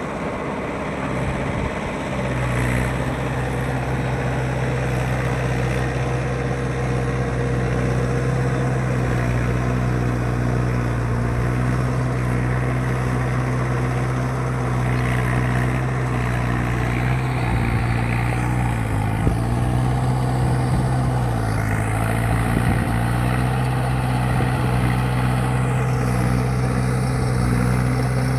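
Mahindra 585 tractor's diesel engine running steadily at a constant speed, its note dipping briefly twice about two-thirds of the way through.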